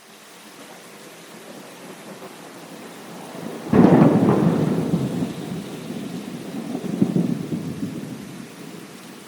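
Steady rain hiss, broken about four seconds in by a sudden thunderclap. It rolls on as a low rumble, swells again a few seconds later and then dies away.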